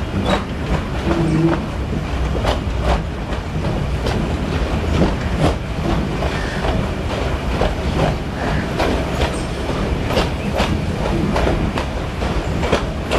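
Meter-gauge passenger coach running, heard from its open doorway: a steady rumble with the wheels clicking irregularly over rail joints.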